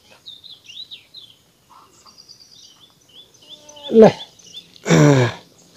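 Small bird chirping steadily in quick, short rising-and-falling notes, faint against the background. Near the end come two short, loud vocal exclamations with a falling pitch.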